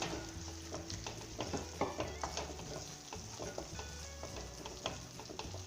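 Onion-tomato masala with a freshly added ground ginger-garlic paste sizzling in hot coconut oil in a kadai, with a spoon scraping and clicking against the pan at irregular moments as it is stirred.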